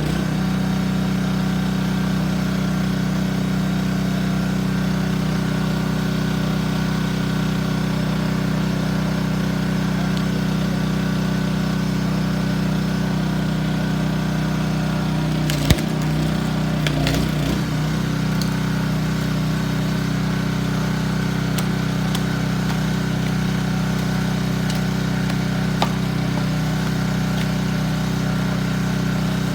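Small gasoline engine of a hydraulic log splitter running steadily, with one sharp crack about halfway through as a log splits, followed by a second or two of splintering cracks.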